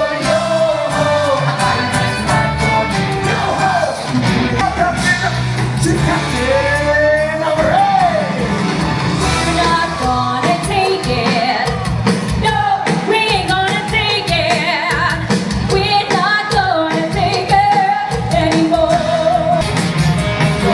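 A live pirate-themed rock band playing a song with a lead singer, over a PA, with shouts and cheers mixed in.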